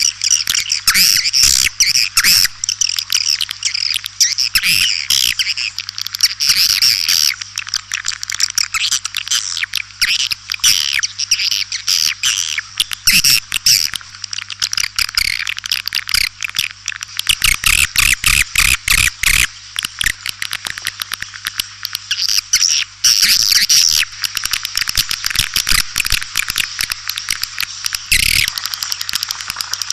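White-nest (edible-nest) swiftlets calling: a dense, continuous twittering of rapid chirps and clicks from many birds, the lure call used to draw swiftlets into a nesting house. A steady low hum runs underneath.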